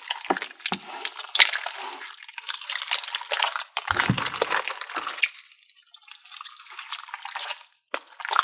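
A large mass of mixed slime and putty being squished and worked by hand in a tub: wet squelching with many irregular sticky pops and clicks, easing off briefly after about five seconds.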